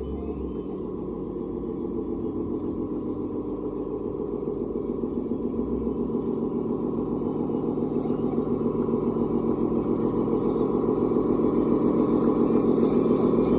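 A radio-controlled construction vehicle running steadily with a fine, even rhythm, slowly getting louder.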